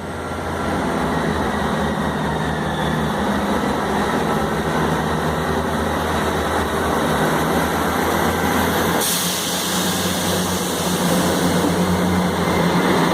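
Class 158 diesel multiple unit's underfloor diesel engines running as the train pulls out of the station, a steady drone. A hiss joins in about nine seconds in.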